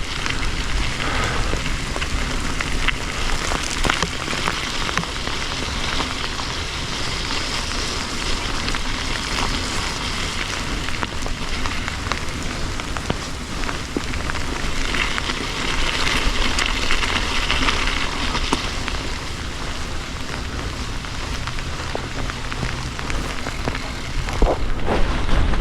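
Steady hiss of falling rain, with scattered ticks of drops striking close by.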